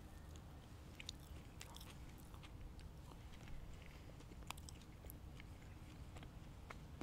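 Close-miked chewing and biting of fast food, with small wet clicks and crunches over a steady low hum.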